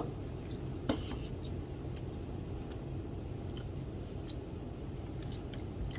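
Eating sounds: scattered light clicks and taps over a steady low hum of room noise.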